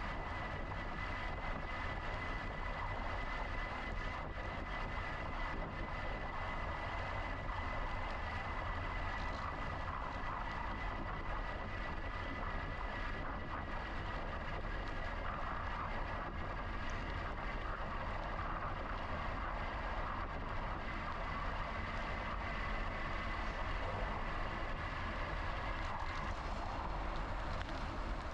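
Steady wind and rolling noise of an electric bike ride, with a faint steady high whine that stops about 26 seconds in.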